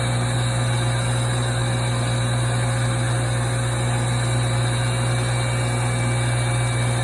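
Sakai ML-360 benchtop lathe running steadily under no load, its motor giving a constant low hum with a few fainter steady tones above it.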